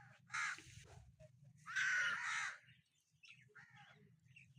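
A crow cawing twice, a short caw and then a longer, louder one, over a low steady hum.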